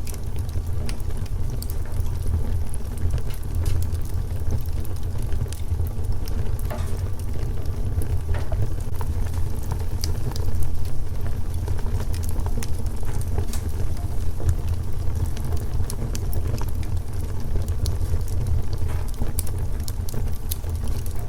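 Wood fire crackling, with irregular sharp pops and snaps scattered over a steady low rumble.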